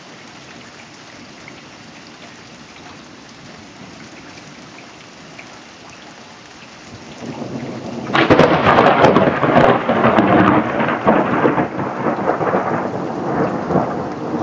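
Steady rain, then a close thunderclap: a short building rumble about seven seconds in breaks into a sudden loud crack with crackling, followed by loud rolling thunder that slowly eases.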